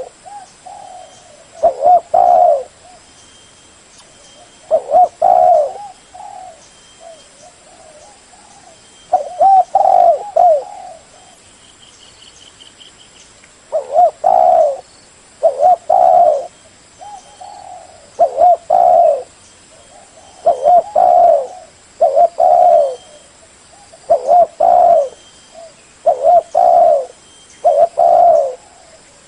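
Spotted dove cooing: loud phrases of a few low, curving coos, repeated every couple of seconds, with softer coos between the phrases.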